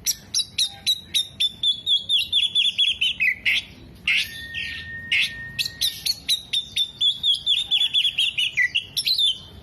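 Oriental magpie-robin (kacer) in full song: fast runs of sharp repeated notes that step downward, and a long even whistle about four seconds in. The song is strung with mimicked phrases of other birds such as sunbirds and lovebirds.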